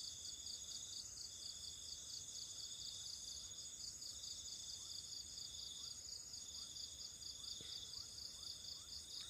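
Night insect chorus of crickets: a steady high trill with a fast pulsing layer beneath it. Through the second half, faint short rising peeps come about two a second.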